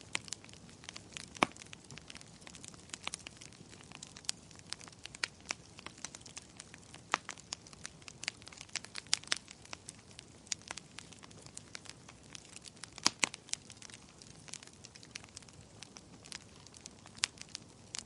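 Wood fire crackling in a fireplace: irregular sharp snaps and pops, a few louder than the rest, over a faint steady hiss.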